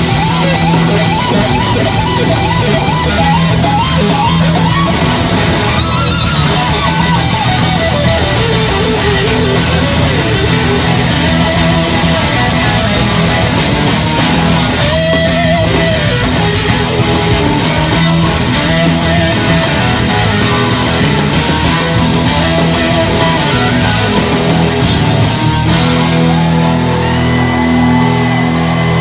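Rock band playing live, with an electric lead guitar playing wavering, gliding melodic lines over a steady full-band backing.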